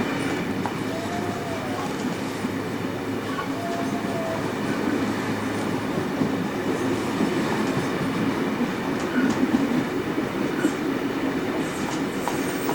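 Heritage passenger carriage running along the line, with a steady rumble of wheels on rail.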